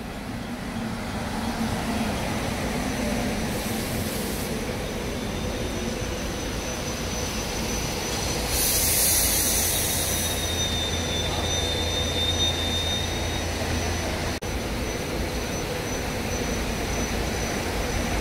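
Train moving along the track with a steady low rumble and thin, high-pitched wheel squeal. A loud burst of hiss comes about nine seconds in.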